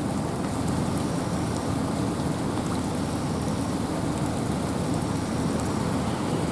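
Wind and rain in a forest: a steady rushing noise, heaviest in the low range, with faint scattered ticks of drops.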